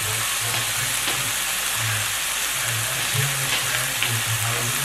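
Diced, partly frozen chicken frying in oil in a nonstick skillet, a steady sizzle. A low hum comes and goes underneath.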